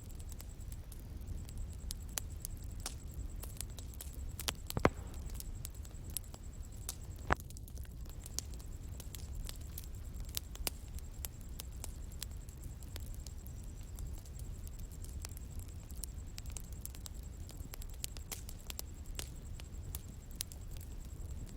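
Bonfire crackling: scattered sharp pops and snaps over the low, steady rumble of the burning fire, with two louder pops about five and seven seconds in.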